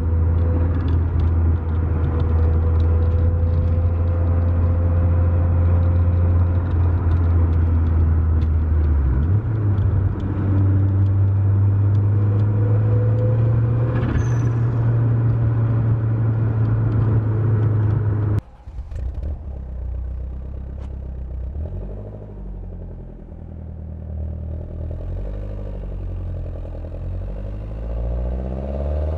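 Lancia Delta Integrale 16V's turbocharged 2.0-litre four-cylinder engine running at steady revs, its pitch stepping up slightly about a third of the way in. About two-thirds of the way in the sound drops off abruptly to a quieter engine note whose pitch rises and falls, climbing near the end.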